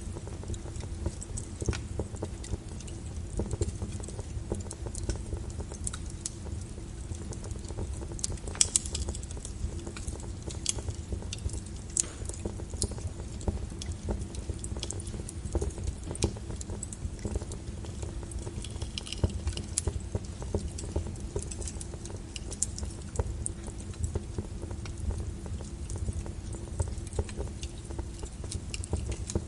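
Wood logs burning in a fireplace: irregular crackles and pops over a low, steady rumble of the fire, with one sharper pop about nine seconds in.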